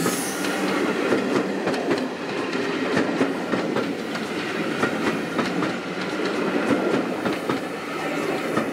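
A rake of BR Mk1 passenger coaches running past at speed, their bogie wheels clattering over the track with a steady stream of sharp knocks.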